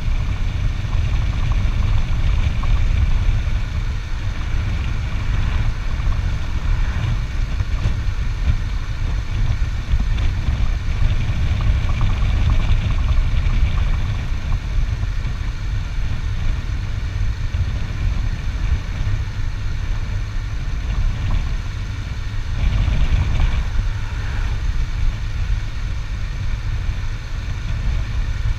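Motor vehicle travelling at a steady pace: the engine runs continuously under a heavy, steady low rumble of road and wind noise.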